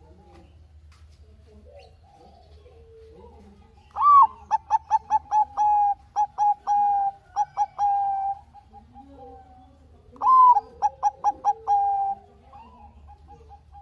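Zebra dove (Bangkok perkutut) singing: two phrases, each opening with a loud rising note and running into a quick series of short coos, the first about four seconds long and the second about two seconds long. Fainter dove cooing is heard between the phrases.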